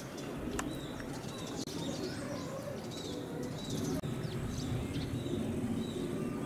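Wild birds calling outdoors: a short high call repeating about twice a second, over a steady low background rumble.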